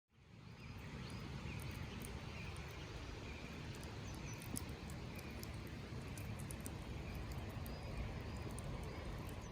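Outdoor ambience fading in from silence: a steady low rumble, with faint chirps repeating about once a second and scattered small high ticks.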